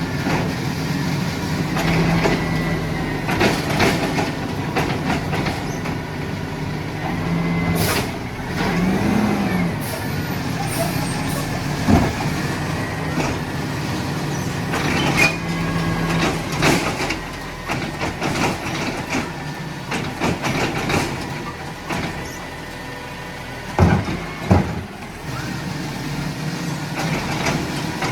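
Mack LR garbage truck with a Labrie Automizer side loader at work: the engine runs steadily and swells briefly, with scattered clanks and knocks and a short hiss of air. Near the end come two loud bangs in quick succession.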